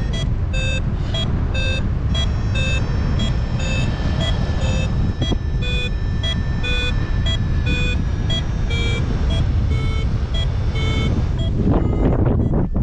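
Paragliding variometer beeping about twice a second, each beep at a shifting pitch, the sign that the glider is climbing in lift. Wind rushes over the microphone underneath, and the beeping stops near the end.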